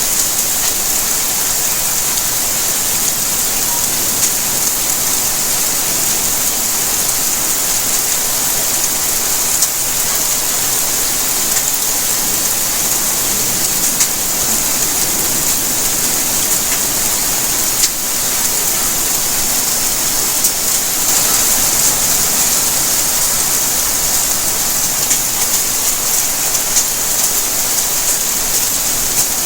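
Steady rainfall: a dense, even hiss of falling drops, with a few sharper single drops ticking now and then.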